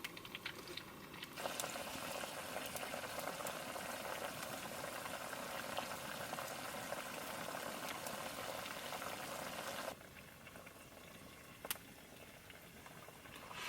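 Sausage ajillo bubbling and sizzling in hot olive oil: a dense, steady sizzle that comes in about a second and a half in and cuts off sharply near ten seconds, with a few faint sharp clicks before and after.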